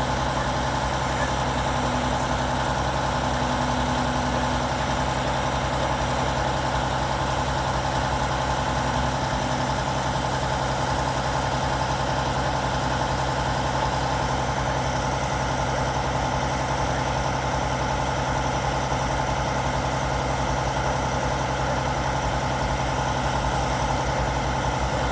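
Albach Diamant 2000 wood chipper's engine running steadily at an even speed, with no changes in pitch or load.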